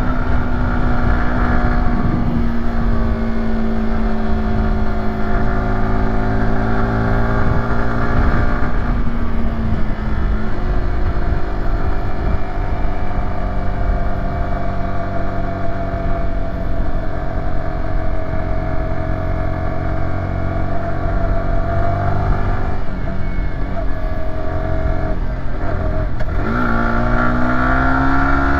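Yamaha YZF-R125's 125 cc single-cylinder four-stroke engine running under load on a climb. The engine note drops with a gear change just after the start and again about ten seconds in, holds fairly steady, then near the end drops with another upshift and rises steadily as the bike accelerates.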